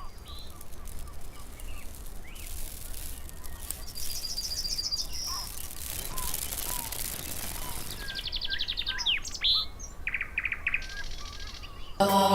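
Birds chirping and singing over a faint steady hiss, with short chirps and several quick trills. Music cuts in loudly at the very end.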